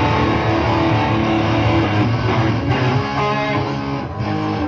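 Live rock band playing, electric guitar strumming to the fore over bass.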